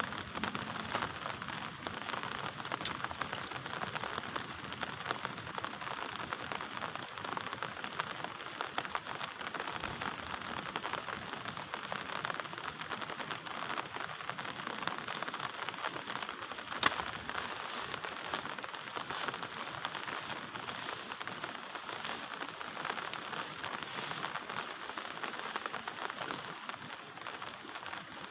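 Heavy rain falling steadily, a dense patter of drops on a surface, with one sharper tap about seventeen seconds in.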